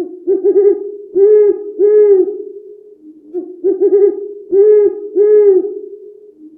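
Owl hooting in two phrases, each a quick stuttering run of short hoots followed by two longer, deeper hoots.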